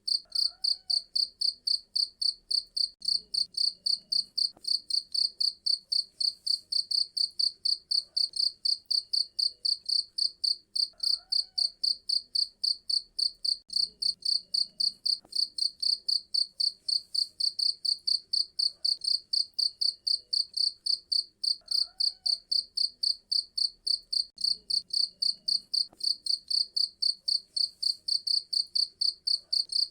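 Cricket chirping steadily: an even, high-pitched pulsed trill of about four chirps a second.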